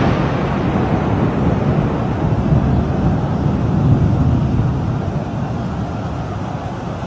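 Steady low rumbling noise of wind buffeting the microphone, with no clear tone or rhythm.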